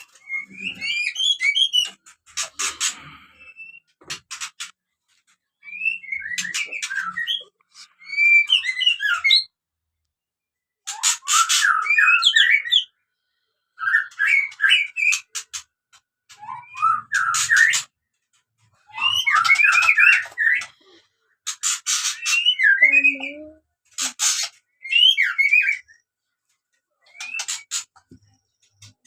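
Captive birds chirping and calling in repeated bursts of a second or two, quick gliding notes with sharp, harsh edges, separated by short silences.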